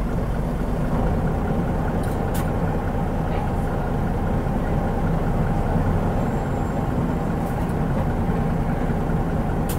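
Mitsubishi Fuso Aerostar KL-MP37JK bus's 6M70 turbocharged six-cylinder diesel running steadily, with a low rumble that shifts slightly about a second in. A few light clicks come through around two seconds in and near the end.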